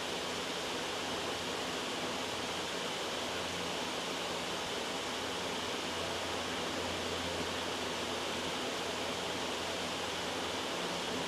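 Steady, loud white noise: an even, unbroken hiss.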